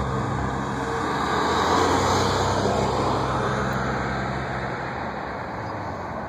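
Steady engine noise with a low hum underneath, swelling a little about two seconds in and easing off afterwards.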